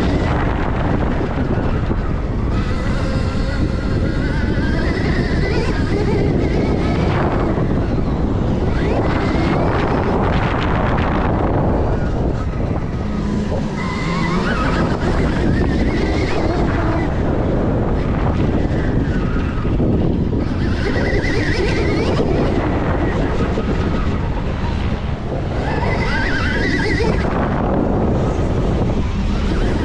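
Stark Varg electric dirt bike being ridden hard on a dirt track: heavy wind buffeting on the microphone, with the electric motor's whine rising and falling four times as the throttle is worked through the turns.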